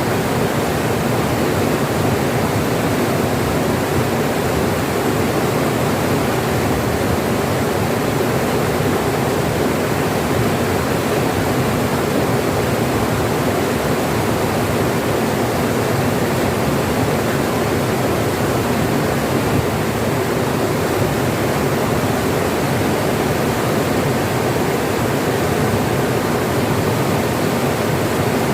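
Flowing water rushing steadily over rocks, a continuous even sound with no breaks.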